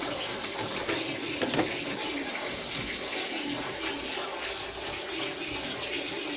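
Water running steadily, a continuous even rush.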